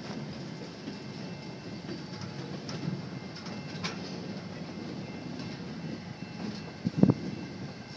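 Railroad cars of a maintenance train rolling past: a steady rumble of steel wheels on rail with scattered clicks, and one loud knock about seven seconds in.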